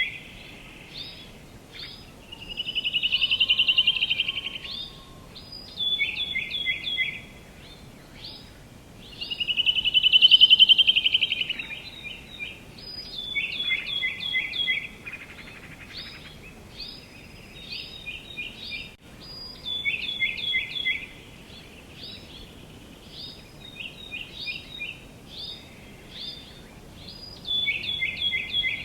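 Birds singing: short phrases of quick descending notes repeated again and again, with two longer, louder phrases, one a few seconds in and one about ten seconds in, over a faint steady background hiss.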